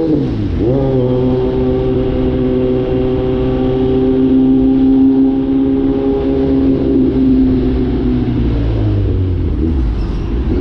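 Kawasaki Z900's inline-four engine running through a cat-delete exhaust while riding. The engine note dips and climbs back right at the start, then holds steady at cruising revs, easing off near the end.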